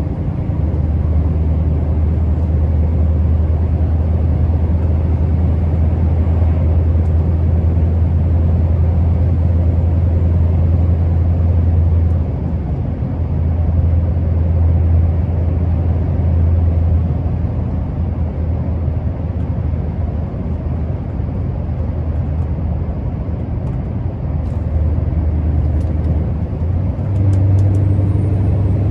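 Scania R650's 16.4-litre V8 diesel pulling the truck along, a steady low drone that eases off about twelve seconds in, returns, and rises in pitch near the end.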